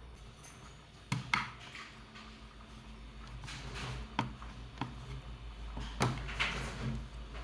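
Handling sounds: several sharp knocks and clicks with short rubbing or scrubbing sounds between them, like a plastic drawer or door being worked.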